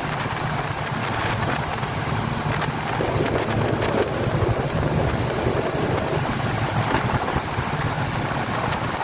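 Speedboat engine running steadily under way, a low hum under the rush of water and wind buffeting the microphone.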